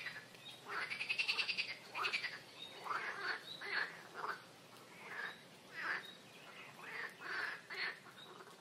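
Birds calling: a rapid trill about a second in, then short calls repeating roughly once a second.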